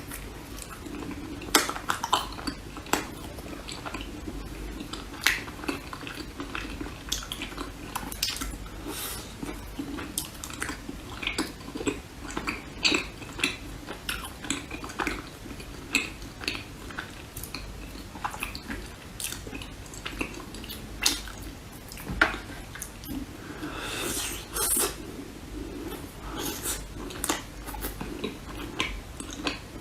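Cutlery clinking and scraping against a dish while a dessert is eaten, with chewing in between: many short, irregular clicks.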